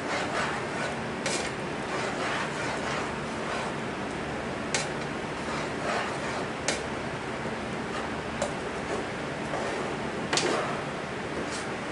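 Food frying in butter in a skillet, with a steady sizzle. A metal spatula clicks against the pan several times.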